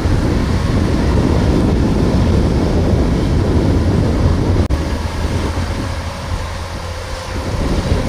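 Kubota DC-105X combine harvester running in lodged rice: its diesel engine and threshing machinery make a loud, steady drone with a low rumble. A sudden brief drop in level comes a little over halfway through, after which it runs slightly quieter.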